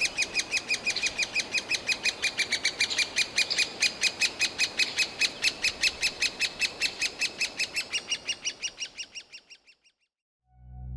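Great spotted woodpecker nestlings, close to fledging, giving their shrill begging calls nonstop from the nest hole: a rapid, even chatter of about seven calls a second. It fades away near the end.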